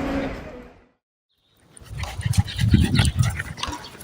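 After a brief cut to silence, a dog makes low, irregular vocal sounds about two seconds in, amid light taps and scuffs.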